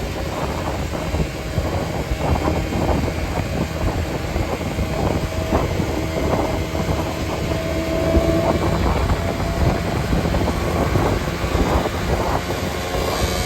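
A vehicle driving along a road: steady engine and road noise with small rattles and knocks throughout, and wind buffeting the microphone.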